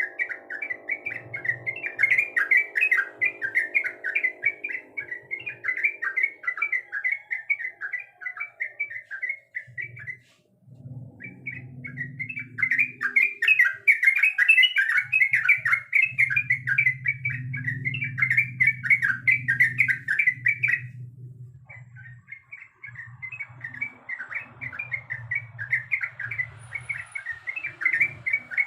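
Yellow-vented bulbul (trucuk) singing in long runs of rapid chattering notes, with two short breaks about ten and twenty-one seconds in.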